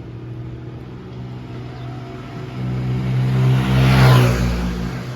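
A motor vehicle's engine running as it passes close by, growing louder to a peak about four seconds in, then fading.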